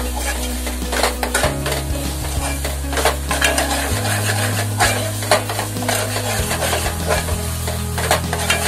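A steel spoon repeatedly scraping and clinking against an aluminium pot as thick masala paste is stirred and fried in oil, with a light sizzle; the paste is being sautéed until the oil separates. Background music with low sustained notes plays underneath.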